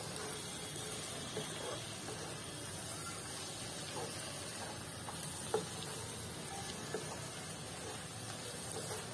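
Potatoes and fenugreek leaves sizzling softly in a nonstick kadhai as a wooden spatula stirs them, with a few light knocks of the spatula against the pan.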